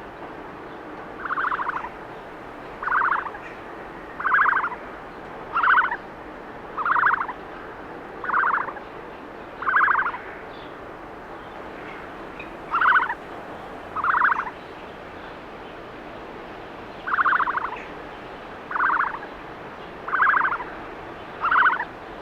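A bird calling over and over in short, buzzy calls, about thirteen of them, each roughly half a second long, in evenly spaced runs with two short breaks.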